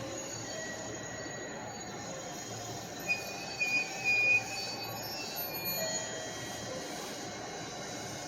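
Train moving along the platform with its wheels squealing in thin, high tones, sharpest in a few loud squeals about three to four and a half seconds in.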